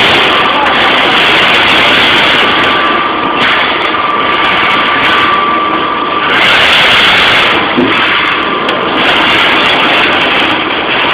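Strippit 1000 SX CNC turret punch press running while punching 1.6 mm stainless steel sheet: a loud, continuous machine din with a faint steady high whine through the first half.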